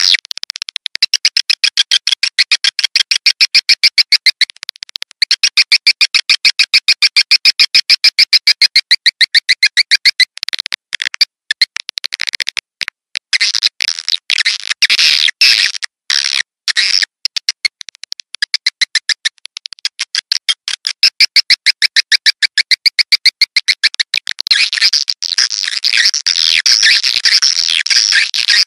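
Swiftlet lure call: edible-nest swiftlet chirps played back as a recording, in rapid trains of many short chirps a second, broken by brief pauses. Near the end the chirps thicken into a denser, overlapping chatter.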